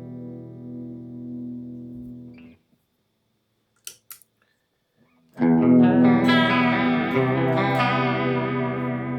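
Electric guitar played through a chorus pedal: a sustained chord rings and is cut off about two and a half seconds in. A couple of faint clicks follow in the silence, then a new chord is struck a little past five seconds in and rings on.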